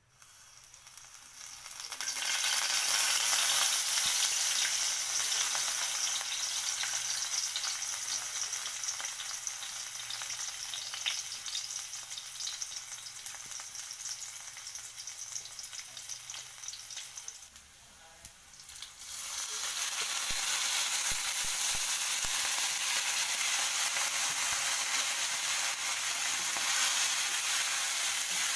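Food sizzling in a hot oiled wok as chopped vegetables and red chili are tipped in and stirred; the sizzle builds over the first two seconds, eases, dips briefly about two-thirds through, then comes back louder and steady as red ant eggs fry and are stirred with a spatula.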